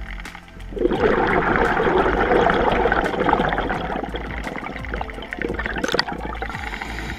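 A rush of bubbles underwater: a diver's exhaled air streaming past the microphone for about three seconds, then fading.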